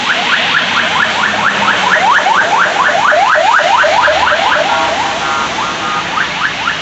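Car alarm sounding, a rapid string of rising whoops about four or five a second, switching briefly to a steady stepped tone partway through before the whoops resume. Under it is the steady rush of floodwater.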